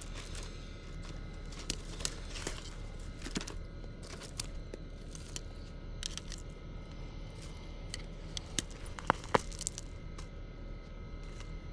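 Scattered snaps, crackles and tearing of weeds and woody stems being pulled out and broken during weeding, with two sharp cracks close together about nine seconds in.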